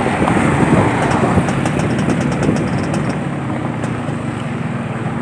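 Yamaha RX-King's 135 cc two-stroke single-cylinder engine idling steadily.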